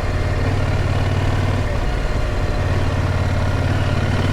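Adventure motorcycle's engine running at a steady, low speed on a dirt track, heard through an in-helmet microphone with a strong, even low hum.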